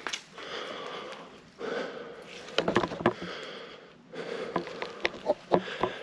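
A person breathing hard in long breaths, with crackling footsteps through dry brush about two and a half seconds in and again over the last second and a half.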